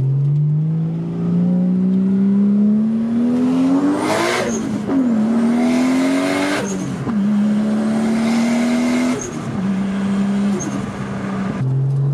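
Turbocharged RB25DET Neo straight-six pulling hard under boost through the gears, heard from inside the car: the engine note climbs steadily, then drops sharply at each of three upshifts with a burst of hiss, and drops once more near the end.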